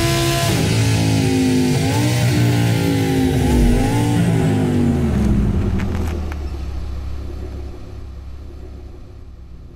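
Audi R8's V10 engine at high revs, dropping in pitch about half a second in, then revving up and down a few times before winding down. The engine fades to a low rumble after about six seconds, with a few sharp clicks as it dies away.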